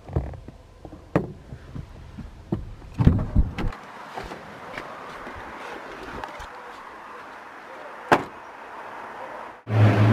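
Door clunks and latch clicks on a 2016 Isuzu D-Max pickup as it is handled: scattered knocks, a loud cluster of knocks about three seconds in, and a single sharp click about eight seconds in. Just before the end the sound cuts off abruptly and a steady low hum takes over.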